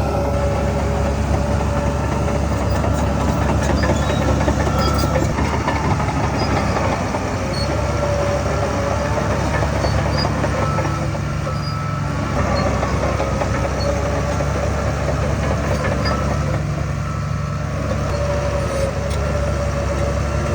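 Heavy earthmoving machinery's diesel engine running steadily under load, with an intermittent high squealing whine that comes and goes.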